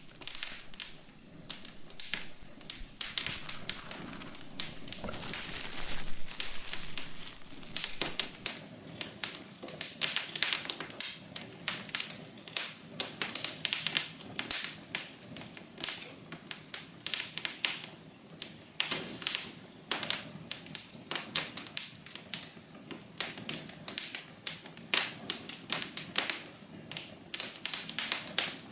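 Wood fire crackling in a fireplace: many sharp, irregular pops and snaps over a soft hiss.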